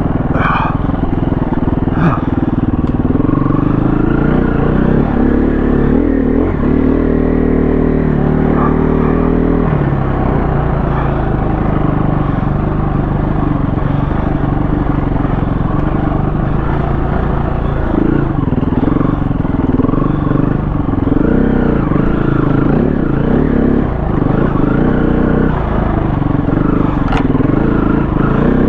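KTM 350 four-stroke single-cylinder dirt bike engine running under load, its revs rising and falling again and again. A few sharp knocks come near the start and near the end.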